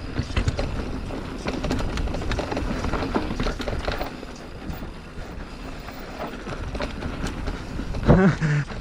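Full-suspension mountain bike rattling down a rough, rocky trail: tyres on dirt and rock, with chain slap and frame clatter making many sharp clicks and knocks. Wind noise on the microphone runs underneath, and the clatter eases off a little in the middle.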